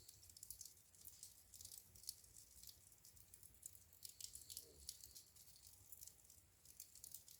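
Wood fire crackling softly in a fireplace: faint, irregular small pops and snaps, several a second.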